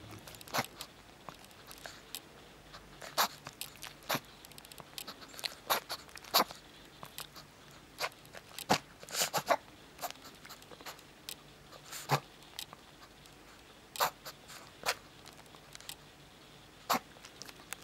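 A dog's short, sharp nasal snorts, coming singly at irregular gaps, with a quick cluster about nine seconds in. The owner wonders whether this is reverse sneezing.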